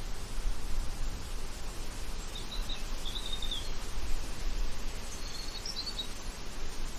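Steady outdoor hiss with a low rumble underneath, and a small songbird chirping two short, high phrases, about two and a half and five and a half seconds in.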